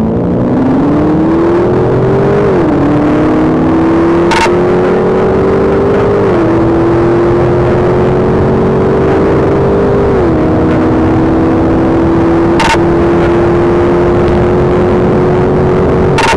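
Patrol car's engine under hard acceleration, heard from inside the cabin. Its pitch climbs steadily, then drops back at upshifts about two and a half, six and ten seconds in, over road and wind noise. A few brief clicks are heard in between.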